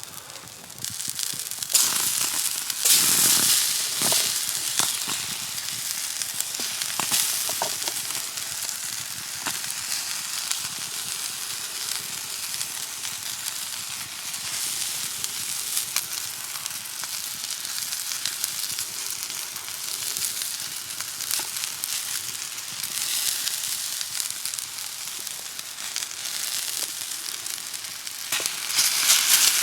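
Parasol mushroom frying in sunflower oil in an iron pan: a steady sizzle with fine crackling, louder for a couple of seconds near the start and again near the end.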